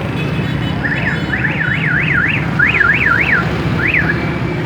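Electronic vehicle alarm siren, its tone sweeping rapidly up and down in pitch, about three sweeps a second, in broken runs that stop shortly before the end, over a steady low hum.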